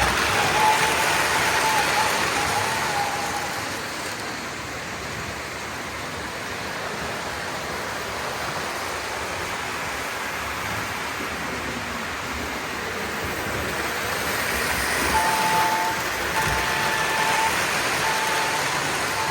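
Lionel O-gauge model train running on the layout, its wheels rumbling steadily on the track and growing louder as it passes near the start and again later on. Its signal is blown in short blasts in the first few seconds and in a run of short and long blasts near the end.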